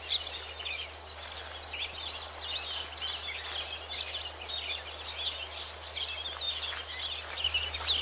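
A chorus of many small birds chirping at once, with short overlapping calls throughout, over a low steady hum.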